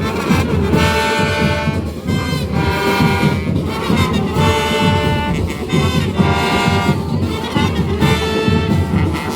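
Marching band playing: brass instruments holding and changing notes every second or so over fast, steady drumming.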